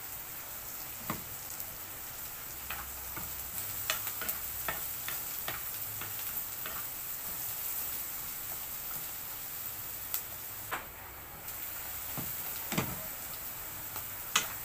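Frozen mixed vegetables sizzling in oil in a frying pan on a gas stove, with a steady hiss. A wooden spatula taps and scrapes against the pan as they are stirred, giving scattered clicks and a few louder knocks.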